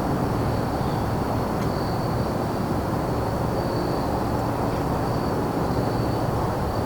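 Steady low rumble of distant traffic under a continuous high-pitched cricket trill that swells and fades slightly.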